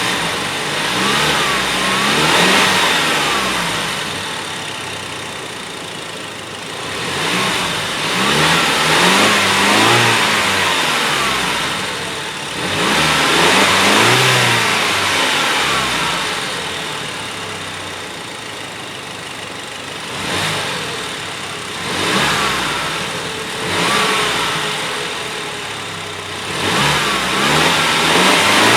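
2023 Tank 300's engine revving several times, each rev rising in pitch and falling back.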